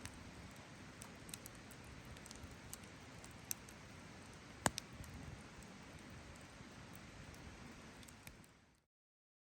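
Wood campfire crackling, with scattered sharp pops, the loudest about halfway through. The sound cuts off abruptly to silence near the end.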